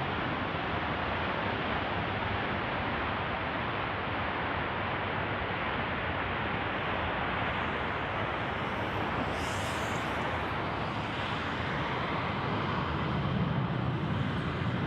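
F-15 fighter jet's engines running during a takeoff run, a steady rushing noise heard from a distance without distinct bangs, growing slightly deeper and louder near the end.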